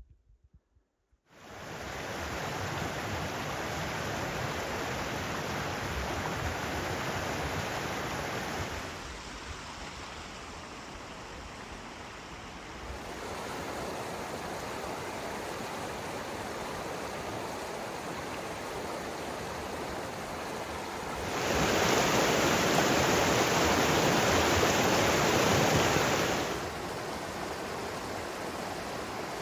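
Steady rushing noise that starts about a second in, drops somewhat about a third of the way through, and grows louder for about five seconds near the end, each change coming suddenly.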